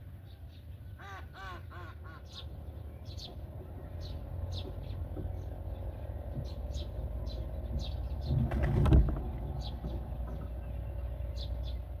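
Short, high bird chirps repeat every half second or so over a steady low rumble. About a second in comes a quick run of four or five harsh calls, and a louder rush of noise about three quarters of the way through.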